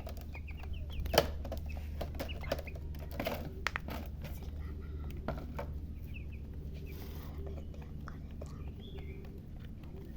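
Domestic hen clucking with chicks peeping, a quick run of short peeps near the start. Scattered sharp taps come through, the loudest about a second in, over a steady low hum.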